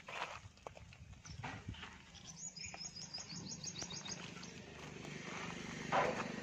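A bird sings a rapid trill of high chirps in the middle stretch, with a few scattered chirps before it. A short loud noise comes near the end, and a low steady hum rises in the last second or so.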